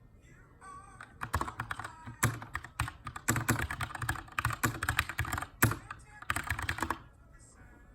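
Typing on a Keychron K2 mechanical keyboard with brown switches and an aluminium frame: a quick run of keystrokes starts about a second in and stops about a second before the end, with a few louder strokes among them.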